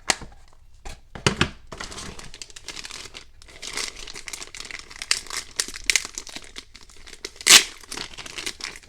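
Packaging crinkling and rustling in irregular bursts as the toy set's contents are pulled out of the box, with one louder crackle near the end.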